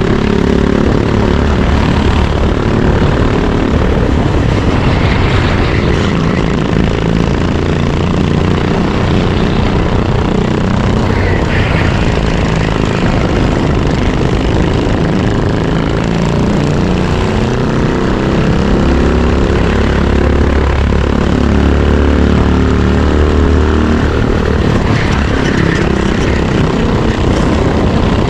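Racing kart engine running hard, heard onboard, its pitch rising and falling repeatedly as the driver comes on and off the throttle through the corners.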